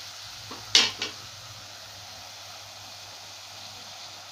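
Chopped onion, peas and tomato frying in an aluminium pan with a soft, steady sizzle. About a second in, two sharp metal clinks against the pan, the first much louder.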